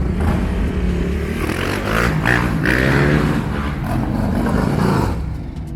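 Suzuki RM-Z450 dirt bike's single-cylinder four-stroke engine revving, its pitch rising and falling through the middle, then easing off near the end.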